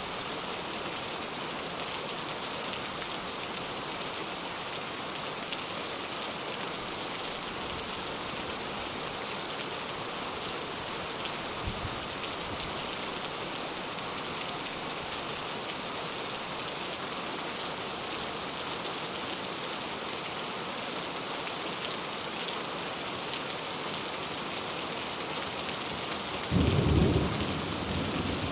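Steady rain falling, with a short, loud rumble of thunder near the end.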